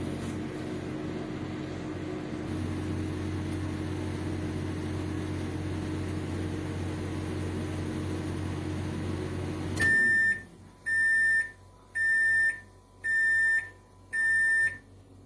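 Russell Hobbs RHM2076B 800 W solo microwave running with a steady hum. The hum cuts off about ten seconds in, and the oven then gives five high beeps, about one a second, signalling the end of the heating cycle.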